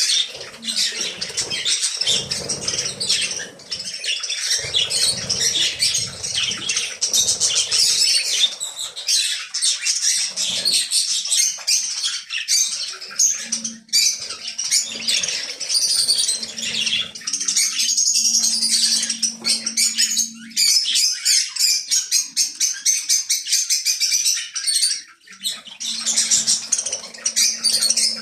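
A dense, continuous chorus of many small birds chirping and chattering together. A low steady hum comes in about halfway through and again near the end.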